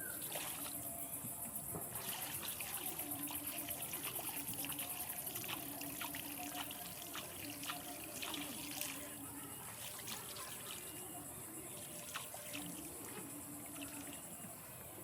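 Canal water trickling and dribbling, with many small splashes and clicks.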